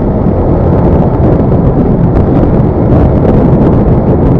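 Loud wind buffeting the microphone over the running noise of a moving vehicle.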